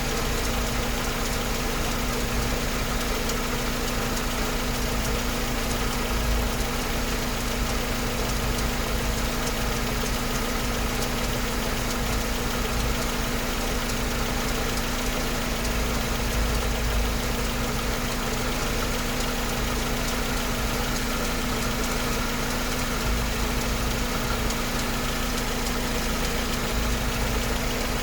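Mercedes-Benz 190E engine idling steadily with a rhythmic ticking.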